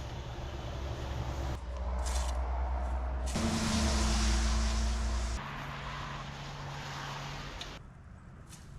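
Excavator diesel engine running, growing louder towards the middle, with a loud hiss for about two seconds in the middle. It then settles to a steadier hum that falls away near the end.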